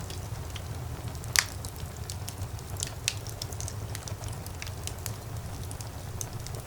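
Fire in a fireplace crackling over a low, steady rumble of flames, with scattered pops. The loudest pop comes about a second and a half in, and another sharp one comes about three seconds in.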